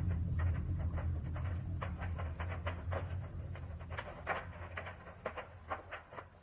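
Rapid, irregular crackling pops over a low rumble that fades away toward the end: a burning ammunition depot with rounds cooking off.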